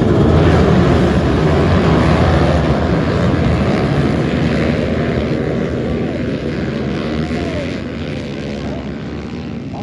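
A pack of motocross bikes running hard together, many engines overlapping. It grows slowly fainter as the bikes pull away.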